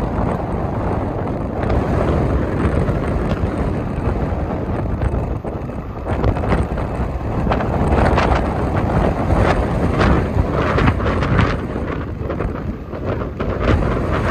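Strong gusty wind buffeting the microphone, a loud rumbling noise that surges and drops irregularly. It covers the sound of the locomotive.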